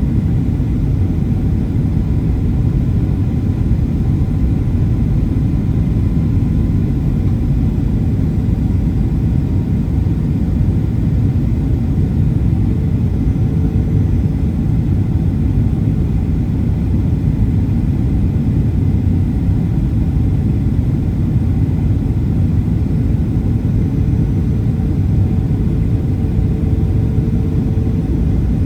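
Steady rumble of cabin noise inside a Boeing 737-800 airliner: engine and airflow noise, heaviest in the low end, with a few faint steady tones above it.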